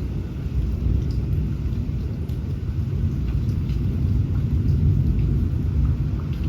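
Thunderstorm: a continuous low rumble of thunder under steady rain, with scattered drops ticking through it.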